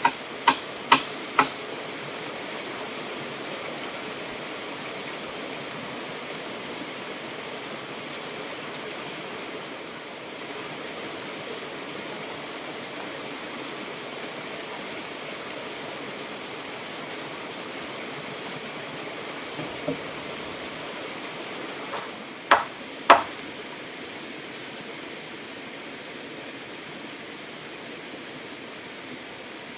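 A steady rush of fast-flowing water throughout, with hammer blows over it: four quick strikes in the first second and a half, then a light tap near the middle and two hard strikes a little later.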